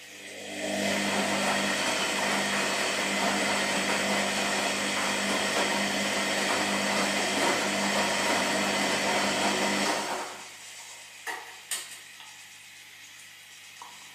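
Washing machine motor turning the drum, a steady hum that starts just after the beginning and stops about ten seconds in, followed by two short clicks.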